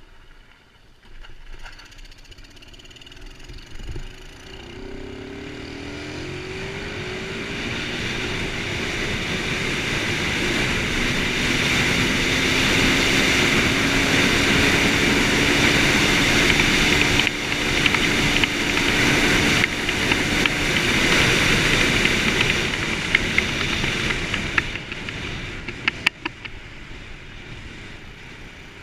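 125cc dirt bike engine revving and pulling through the gears, its pitch rising in several climbs during the first few seconds. It grows louder over about ten seconds, holds a steady note, then fades near the end, with a few sharp clicks as it drops away.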